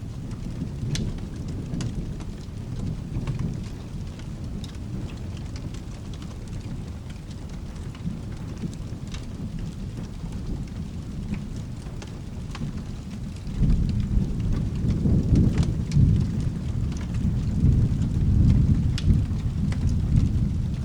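Steady rain with a continuous low thunder rumble and scattered sharp crackling pops. About two-thirds of the way through, a louder roll of thunder swells in suddenly and keeps rolling.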